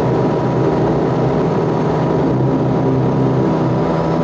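Aircraft engines running with a steady, even drone and a few constant hum tones.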